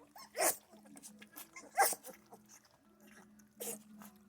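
Central Asian Shepherd puppies giving three short yelps, about a second and a half apart, with faint clicking between them over a steady low hum.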